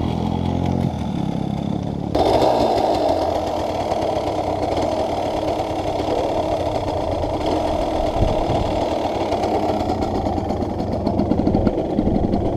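Dirt bike engine idling with a steady low hum. About two seconds in, it gives way abruptly to a louder, rougher engine noise that carries on to the end.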